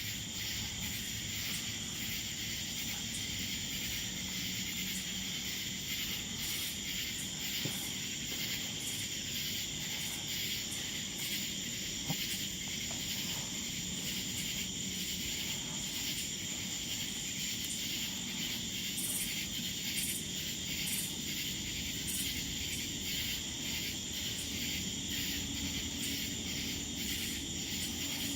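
A steady, pulsing chorus of night insects such as crickets singing.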